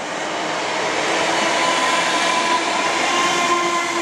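Class 315 electric multiple unit running along the track: a steady rumble of wheels on rail with a faint steady whine, growing louder over the first second and then holding.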